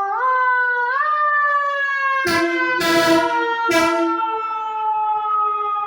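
Ambulance siren wailing: its pitch climbs twice in the first second, then slowly falls. Three short, loud horn blasts sound over it between about two and four seconds in.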